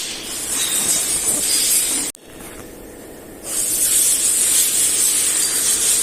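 Loud steady hissing spray that stops suddenly about two seconds in and starts again about a second and a half later.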